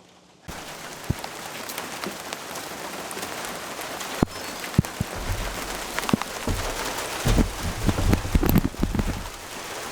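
Rain falling, starting suddenly about half a second in, with scattered sharp drip taps and louder low thuds in the second half.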